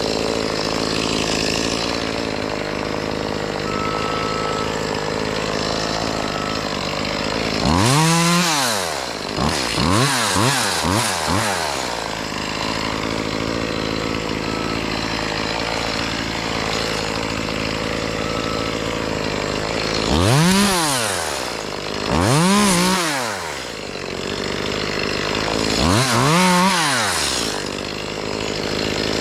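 Chainsaw revved up and back down in short bursts over a steady engine drone: one rev about eight seconds in followed by a few quick blips, then three more revs near the end.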